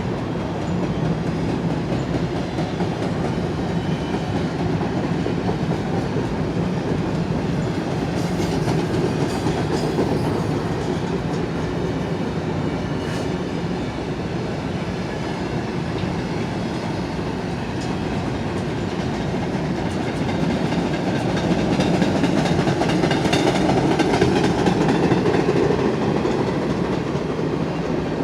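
A long freight train of empty intermodal cars rolling past at speed: a steady rumble with wheel clatter over the rail joints and a faint metallic ring from the wheels and rails, getting a little louder near the end.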